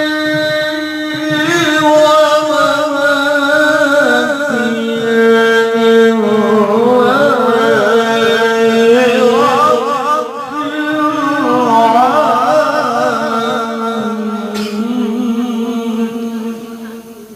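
A male qori reciting the Quran in melodic tilawah style, drawing out long held notes with wavering, ornamented runs, and ending the phrase near the end.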